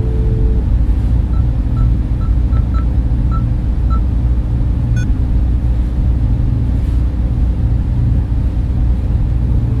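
Server room cooling fans running with a steady, loud, low hum and a few held fan tones. A handful of faint short high pips sound between about one and four seconds in.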